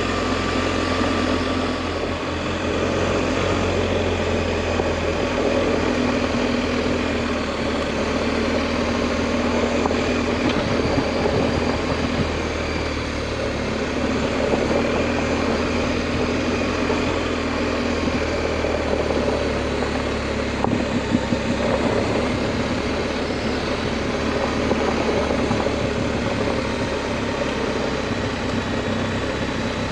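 Adventure motorcycle engine running steadily while riding a dirt road, with an even rush of road and wind noise over it.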